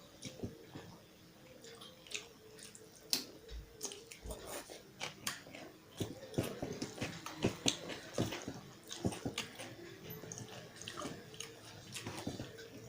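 A person chewing and biting food close to the microphone, with many short mouth clicks and smacks that come thicker about halfway through.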